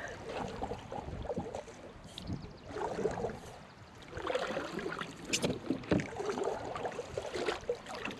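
Kayak paddle strokes: water splashing and dripping off the paddle blades in uneven swells every second or two.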